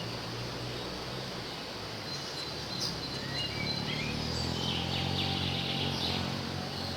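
Scattered bird chirps and short call notes, busiest in the second half, over a steady low hum.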